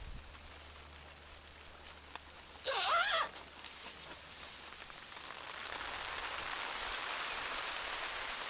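Rain setting in: an even hiss that builds over the second half. About three seconds in, a short, loud call with a wavering pitch stands out.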